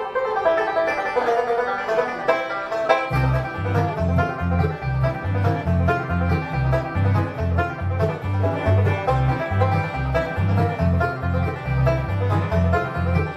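Live bluegrass band playing a fast instrumental rag, with the banjo taking the lead. A bass joins with a steady beat about three seconds in.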